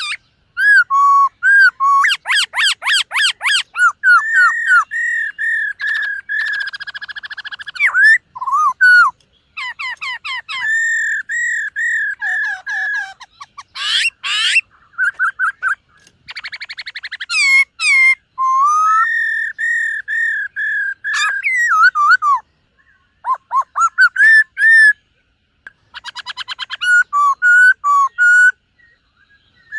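Black-throated laughingthrush singing: loud, clear whistled phrases that hold near one pitch, mixed with fast runs of repeated notes and quick swooping glides. Short pauses fall between the phrases.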